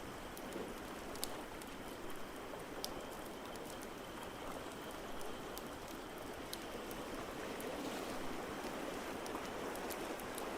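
Ambience mix of ocean waves: a steady wash of surf that swells a little toward the end, with the sharp, irregular pops of a crackling fireplace over it.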